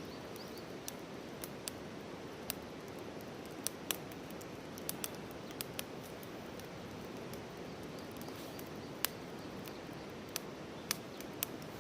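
Wood campfire of firewood and old scrap lumber crackling: irregular sharp pops and snaps, about a dozen, over a steady low hiss.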